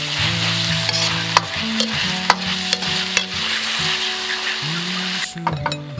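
Food sizzling in a hot pan while being stir-fried, with the spatula scraping and clicking against the pan. The sizzle cuts off suddenly about five seconds in.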